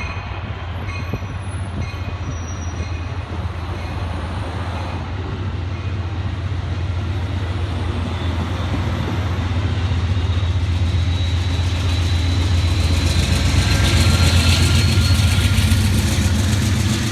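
Amtrak passenger train passing with its P42 diesel locomotive. The engine's steady low drone grows louder as the locomotive comes closer and is loudest about fourteen seconds in.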